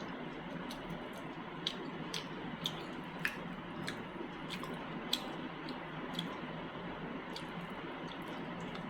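Close-miked eating of chicken masala and mutton liver gravy: sharp, irregular wet mouth clicks and smacks while chewing, thinning out in the last few seconds, over a steady hiss.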